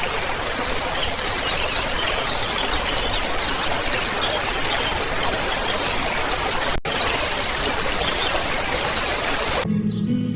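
A steady rushing sound like running water, with faint high chirps over it. It breaks off for an instant about two-thirds through, then stops abruptly near the end.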